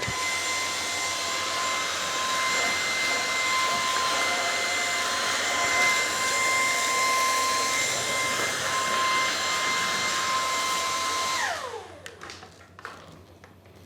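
Lupe Pure cordless stick vacuum running steadily with its brush bar switched off, a high motor whine over a rush of airflow. Near the end it is switched off and the whine falls away as the motor spins down.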